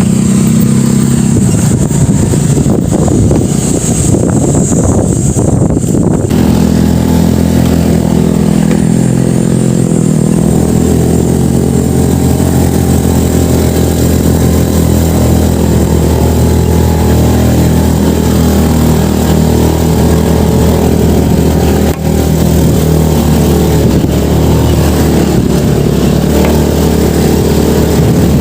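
Motorcycle engine running as the bike is ridden, a steady drone whose pitch shifts slightly a few times.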